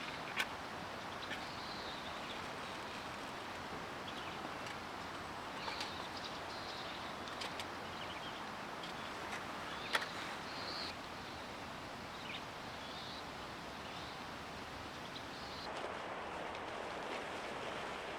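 Steady outdoor woodland ambience, a constant low hiss with faint short bird calls scattered through it. A couple of sharp knocks stand out, one just after the start and a louder one about ten seconds in.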